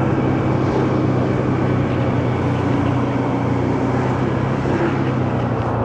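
Motorcycle engine running at a steady speed, a constant low hum over wind and road noise.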